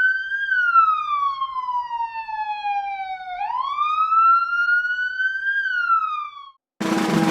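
Police siren wailing, its pitch rising and then slowly falling in long sweeps, twice. It cuts off shortly before the end, when music begins.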